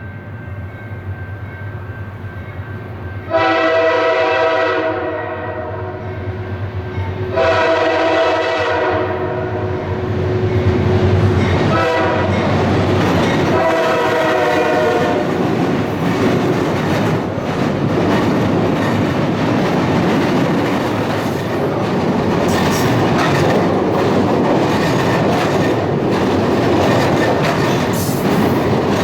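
Freight diesel locomotive horn sounding the grade-crossing signal: two long blasts, a short one and a long one. The passing train's engine and its wheels on the rails then grow loud and carry on steadily.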